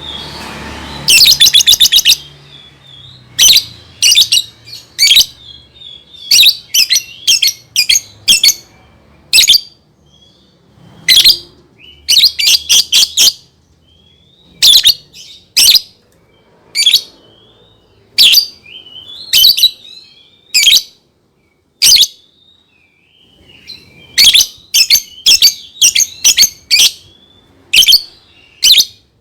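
Lovebird calling: loud, shrill chirps, some single and some in fast runs, with softer twittering chatter between them. A quick rapid-fire burst of chirps comes about a second in.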